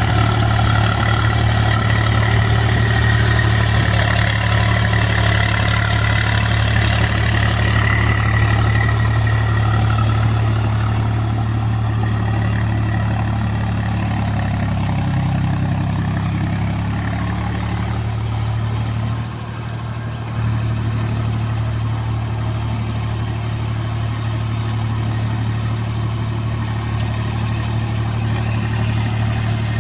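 Swaraj 735 FE tractor's three-cylinder diesel engine running steadily, working through soft paddy-field mud on full cage wheels in low-range third gear. The engine note dips briefly about two-thirds of the way through, then carries on.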